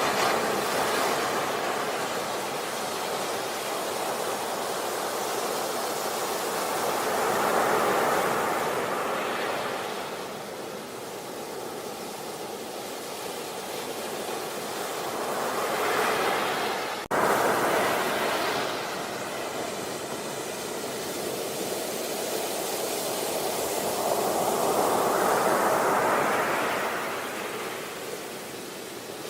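Sea waves breaking and washing up a beach, surging and ebbing about every eight seconds, with one brief dropout about two-thirds of the way through.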